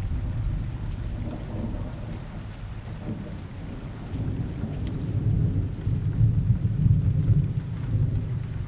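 Steady rain with thunder rolling low underneath, the rumble swelling and fading and loudest past the middle.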